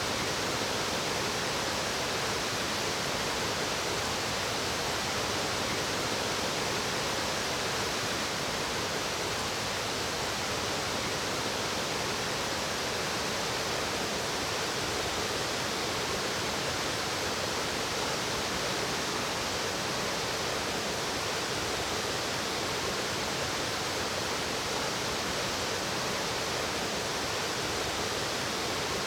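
Fast-flowing mountain stream water rushing steadily, with no breaks or changes.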